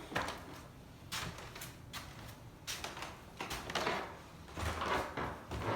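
Irregular knocks and scuffs with rustling, like footsteps and handling on floors covered with protective sheeting.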